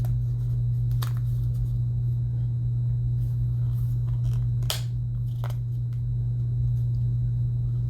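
Plastic packaging of a false-eyelash pack being handled and pried at, giving a few sharp clicks and crinkles over a steady low hum.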